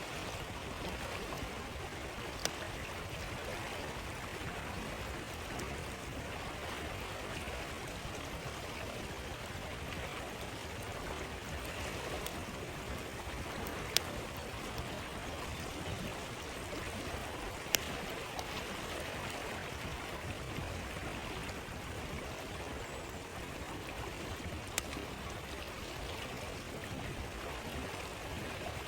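A stream flowing in a steady rush, with a few sharp, isolated pops from a crackling wood campfire, the loudest a little past halfway.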